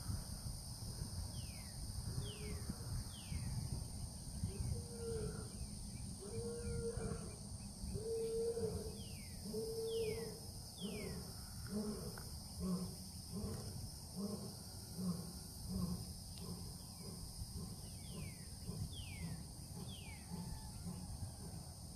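Outdoor wildlife: a bird whistles three quick downslurred notes, three times over, while a run of low animal calls grows shorter and quicker through the middle. A low rumble of wind on the microphone lies under it all.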